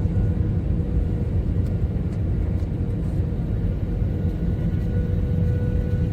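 Steady low rumble of a running vehicle, with a faint steady whine over it.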